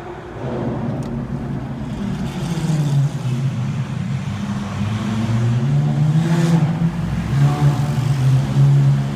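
Lamborghini engine and exhaust revving, its pitch rising twice and then holding high near the end.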